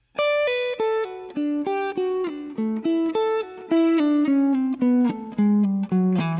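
Guitar playing a single-note lead line, notes plucked one at a time, about three to four a second, winding downward in pitch from the middle register toward the low strings.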